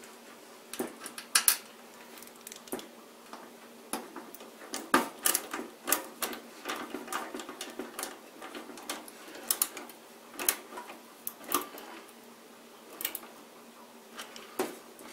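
Screwdriver and small machine screws clicking and clattering against a metal PC case as the motherboard screws are dropped in and driven home. The sharp clicks are irregular and come in clusters.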